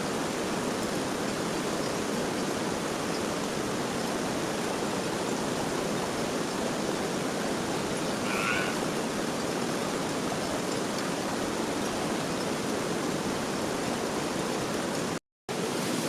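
Steady, loud hiss of water, from heavy rain or mountain runoff. About halfway through there is a brief faint high chirp, and near the end the sound cuts out completely for a moment.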